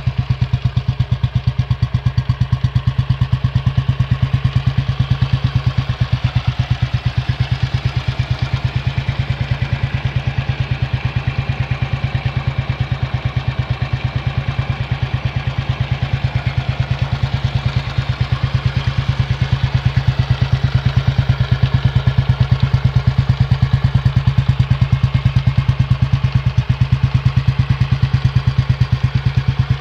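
Fully rebuilt Royal Enfield Bullet 500's single-cylinder four-stroke engine idling steadily, an even run of exhaust beats.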